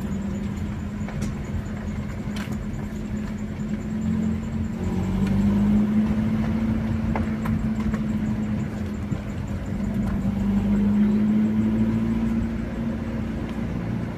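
Car engine and road noise while driving. The engine note swells twice, about a third of the way in and again near two-thirds, as the car picks up speed and then eases off.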